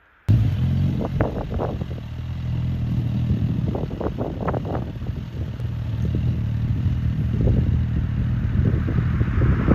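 Suzuki GSX-S1000 inline-four engine running at a fairly steady speed, with scattered sharp clicks and a rush of noise that grows near the end. The sound cuts in suddenly just after the start.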